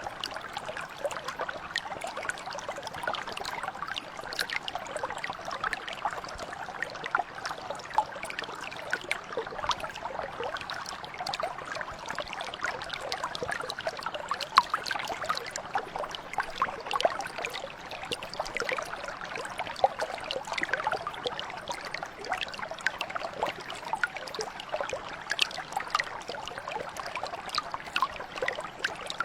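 Shallow mountain brook flowing steadily over stones, a continuous babble and trickle full of small splashes and drips.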